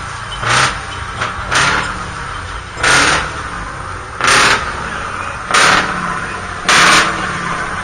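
Heavy vehicle engines running, with a short, sharp noisy burst about every second and a half, seven in all.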